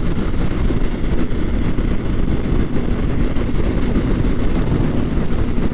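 Kawasaki Ninja 400's parallel-twin engine running steadily at freeway cruising speed, buried in a constant low rush of wind and road noise on the on-board microphone.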